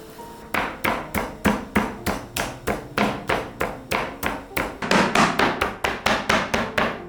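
A knife chopping on a cutting board in a quick, even rhythm of about four knocks a second, starting about half a second in.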